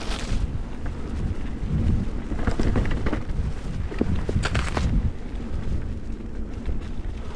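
Full-suspension mountain bike riding a forest trail, heard from an on-bike action camera: a steady wind and tyre rumble, with the bike rattling and knocking over bumps and a few brief bursts of hiss.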